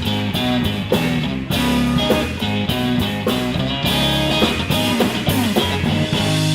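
Live blues-rock band playing an instrumental passage: electric guitar over bass and drum kit, with a steady beat.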